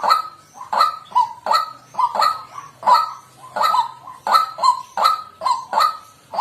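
White-breasted waterhen calling loudly, one call after another at an even pace of about three every two seconds.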